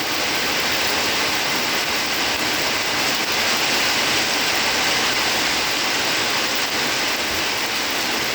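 Heavy rain pouring down steadily, an even hiss of falling water with no let-up.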